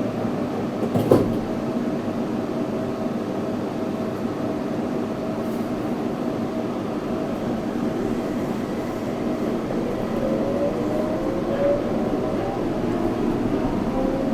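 Yurikamome 7300-series rubber-tyred automated guideway train running, heard from inside the car: a steady rolling noise with a faint motor tone, a short knock about a second in, and a whine rising in pitch near the end.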